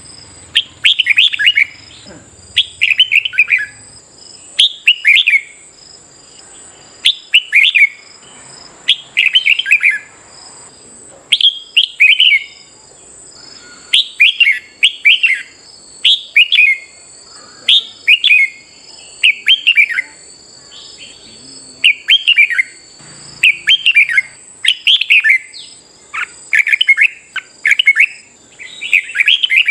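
Red-whiskered bulbul singing: short, bright warbled phrases repeated about once every one to two seconds.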